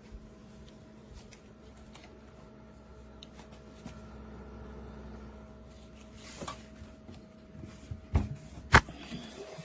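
Handling noises: scattered light clicks and rustles over a steady faint hum, then two sharp knocks near the end, the second the louder.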